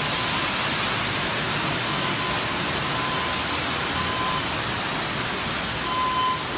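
A steady, loud rushing hiss, with a short electronic beep sounding now and then.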